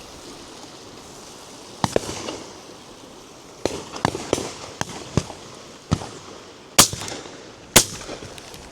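Shotgun fire from several guns along a driven shoot line: about ten scattered shots, some distant and faint, with the two loudest near the end about a second apart.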